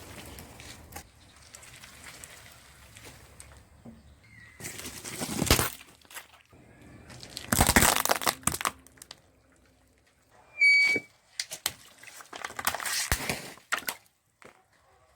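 Objects crushed under a car's tyres: several separate bursts of crunching and crackling, one swelling and then cutting off suddenly, with a short high squeak near the end.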